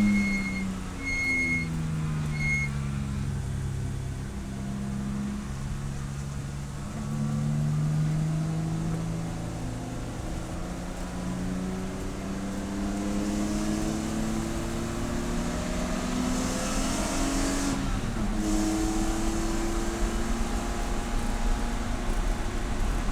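Race car engine running hard, its pitch rising and dropping again and again through gear changes. Three short high electronic beeps sound over the first few seconds.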